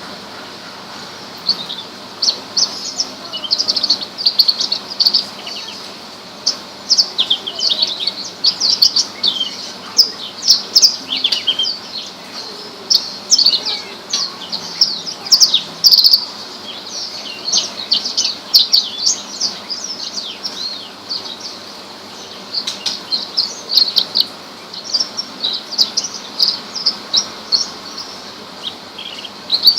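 Horsfield's bush lark (branjangan) singing: a fast, continuous run of varied high chirps, sweeps and trills, with a couple of brief lulls.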